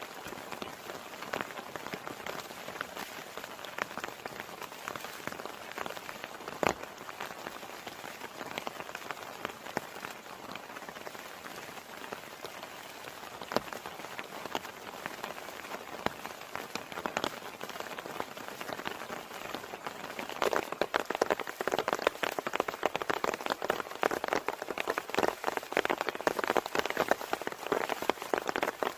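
Heavy rain falling steadily, a dense hiss full of separate drop strikes. It grows heavier and louder about two-thirds of the way through.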